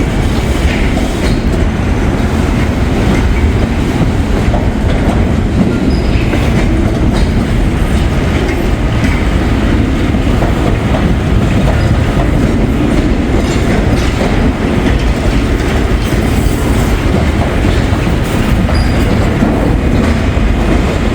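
Freight train working an intermodal yard, rolling past at close range: a steady loud rumble of wheels on rail, with scattered clicks as the wheels cross rail joints.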